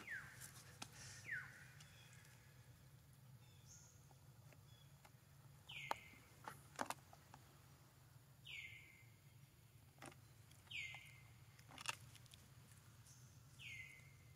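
A bird calling faintly: short calls that slide sharply downward, repeated every two to three seconds, with a few sharp clicks between them.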